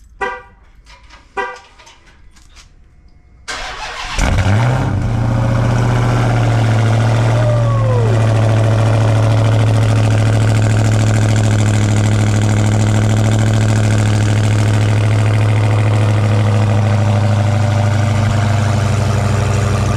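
Dodge Charger Hellcat's supercharged 6.2-litre Hemi V8, running with its catalytic converters deleted, cold-started. Two short beeps come first, then the starter cranks briefly. The engine catches with a loud flare and settles into a steady, loud idle.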